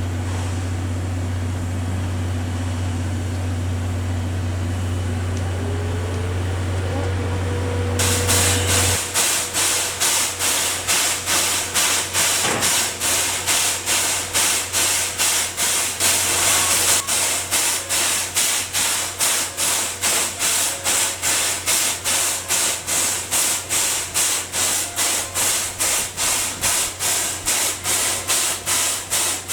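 C11 steam tank locomotives working, their exhaust chuffing in a steady rhythm of about two beats a second with a hissing edge. The chuffing starts suddenly about eight seconds in, after a steady low hum.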